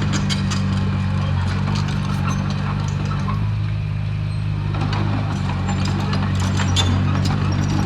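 Komatsu bulldozer's diesel engine running steadily under work, with irregular clanks and knocks over it throughout.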